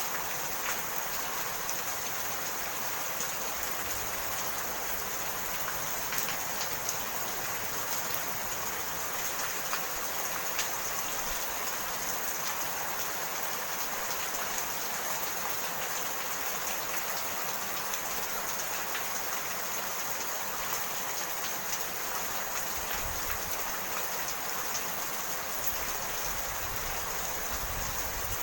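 Steady rainfall, an even hiss of rain with scattered individual drops pattering on surfaces.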